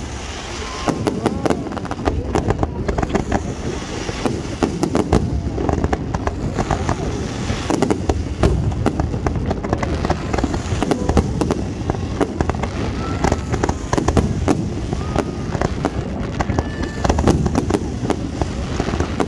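Fireworks display: shells launching and bursting, a dense run of sharp pops and bangs in quick succession over a steady rumble.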